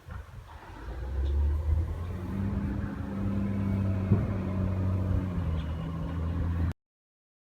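A motor vehicle's engine running steadily with a low hum that builds up over the first second or two. The sound cuts off suddenly near the end.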